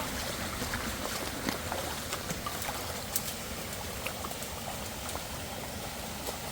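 Creek water running steadily, with scattered small clicks and taps over it.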